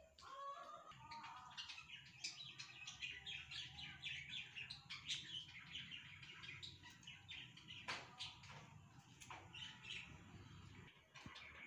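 Small birds chirping, many quick faint chirps in a continuous chatter, over a low steady hum.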